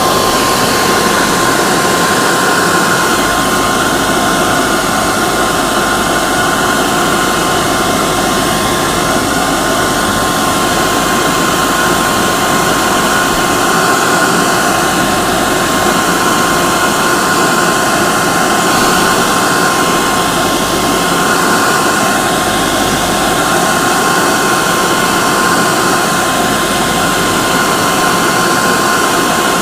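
Hair dryer running steadily: a constant blowing hiss with a steady whine from its motor and fan, unchanging throughout.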